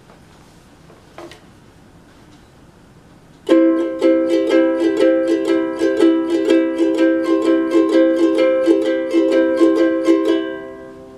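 Ukulele strummed on one held chord, about four quick strums a second, starting about three and a half seconds in and left to ring out near the end. Two faint taps come before the strumming.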